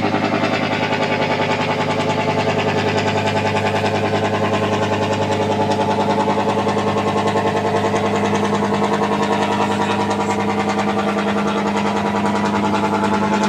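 A boat's engine running steadily, with a fast, even pulse.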